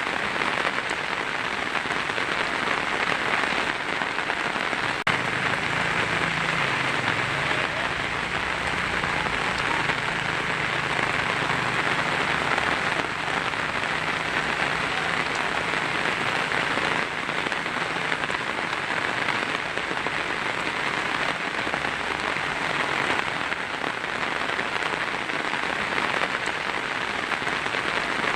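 Heavy rain drumming steadily on a tin roof, a dense even patter. A faint low rumble sits underneath for several seconds in the first half.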